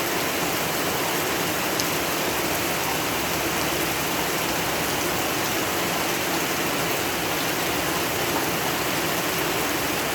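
Steady heavy rain falling, a dense even hiss with scattered faint drop ticks.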